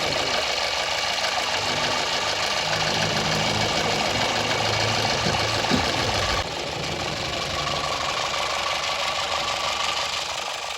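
Toyota Corolla XLi engine running steadily with the abnormal engine noise the car was brought in for. The level drops a little about six seconds in.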